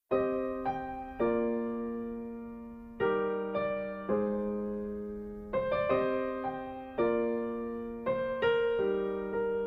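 Background music: slow piano or electric-piano chords, each struck and left to fade before the next.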